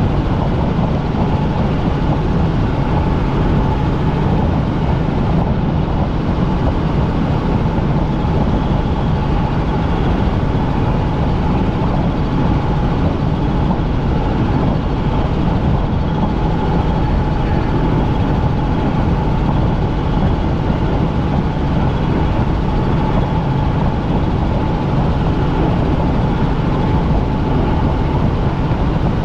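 Helicopter in flight heard from inside the cabin: steady, loud engine and rotor noise with a constant whine.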